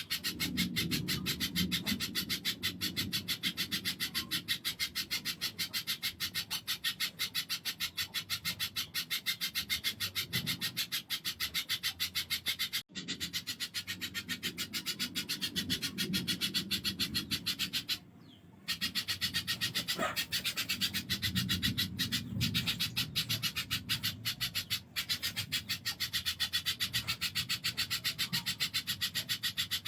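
Spiderhunter giving a harsh, rasping chatter of very fast, evenly repeated notes, nearly without pause, broken briefly twice.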